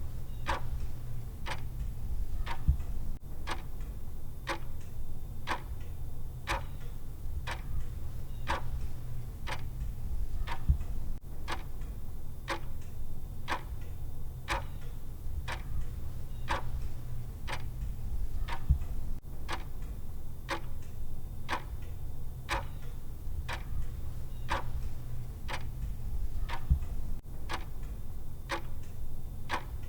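Clock ticking evenly, about two ticks a second, over a steady low rumble.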